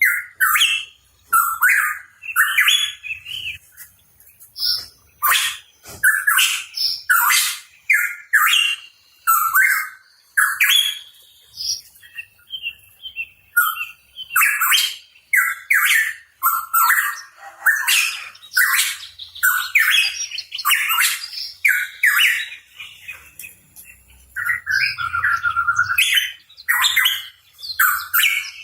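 Pitohui in vigorous song: a fast, nearly unbroken run of short chirps and whistled notes, mixed with sharp, high clicky notes.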